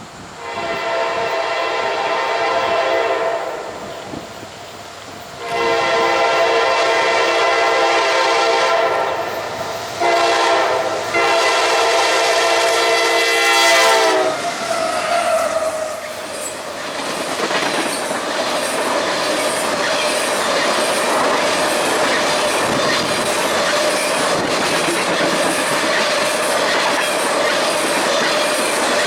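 Train horn sounding a long, long, short, long sequence, its pitch dropping slightly as the last blast ends, followed by the train passing close by with steady wheel-on-rail rumble and clickety-clack. The horn pattern is the standard grade-crossing signal.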